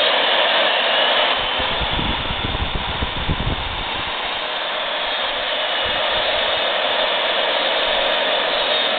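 Milwaukee 4210-1 magnetic drill press motor running in forward with no load, a steady whir.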